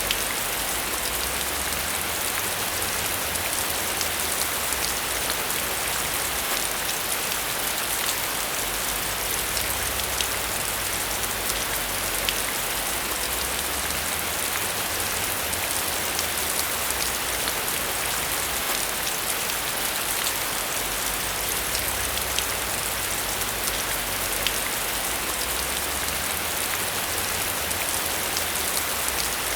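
Steady rain falling, with a dense patter of individual drops ticking over a constant hiss and a low rumble beneath.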